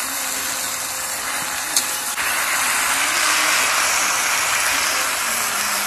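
Vegetables sizzling in a pan over a wood fire. The steady frying hiss grows louder about two seconds in, and there is a single light click shortly before.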